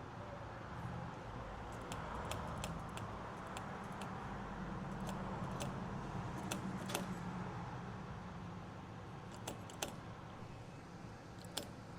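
Light metallic clicks and taps of a fuel pump nozzle being worked against a car's fuel filler neck, which it does not fit, over a steady low hum.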